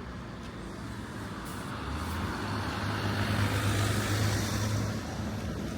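A motor vehicle passing close by: a low engine hum with tyre and road noise that swells from about two seconds in and eases off near the end.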